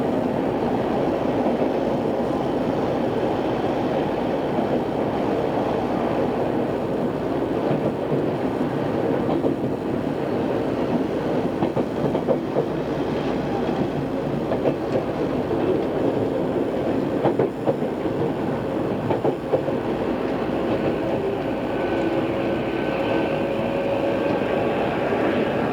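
Odakyu 2600 series electric train running, heard from inside the car: a steady rumble with a few sharp clacks of wheels over rail joints. In the second half a faint whine edges up in pitch. The recording was made on cassette tape.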